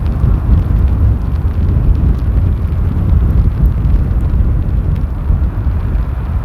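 Strong gusting storm wind buffeting the microphone: a loud, choppy low rumble that rises and falls rapidly.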